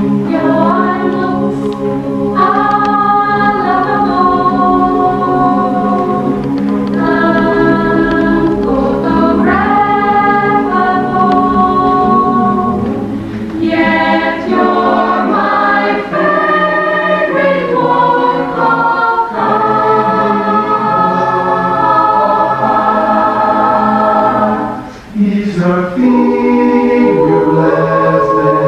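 Chamber choir singing in harmony, holding chords that shift every second or two, with a brief break in the sound about 25 seconds in.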